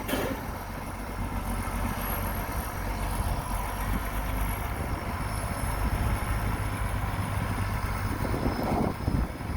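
Heavy diesel construction machine running steadily, a low rumble, with a brief louder burst of noise near the end.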